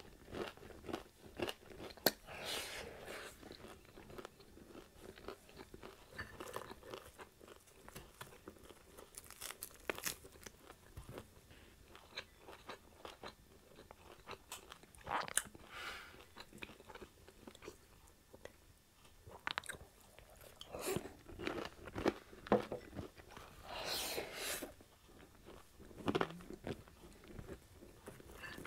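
Close-up eating sounds of a person biting into crispy fried pork chop: several loud crunches spread through, between steady chewing and many small wet mouth clicks.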